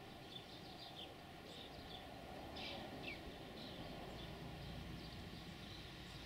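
Faint birdsong of short chirps and quick falling notes, over a low rumble that grows a little in the second half.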